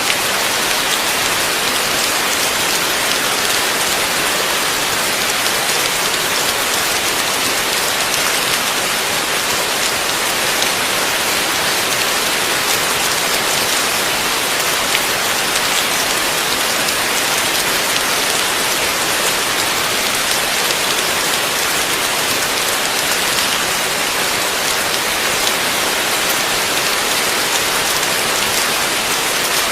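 Heavy rain falling steadily, a dense even hiss of drops pattering on surfaces with no letup.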